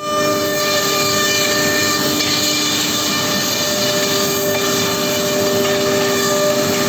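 CNC router spindle running steadily: a constant whine of several tones over an even hiss.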